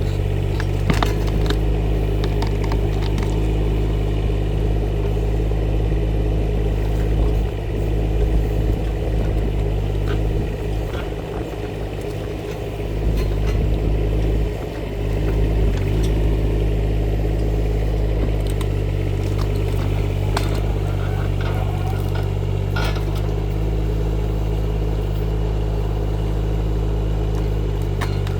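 Rippa R15 mini excavator's engine running steadily. Its note shifts and dips for a few seconds in the middle as the load changes, with a few sharp metallic knocks from the machine working.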